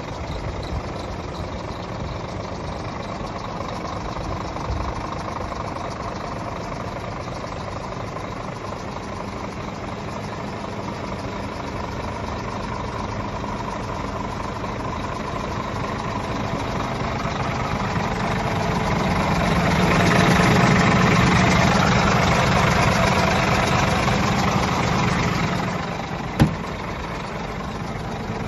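Scania R450 truck's 13-litre inline-six diesel idling, then speeding up gradually to a held higher speed about two-thirds of the way in, before dropping back to idle. A single sharp click sounds just after it drops back.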